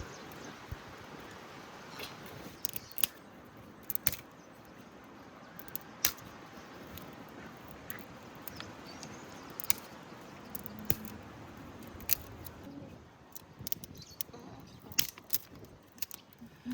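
Sharp, scattered clicks and clinks, some in quick pairs, over a steady low background hiss, like small hard objects being handled.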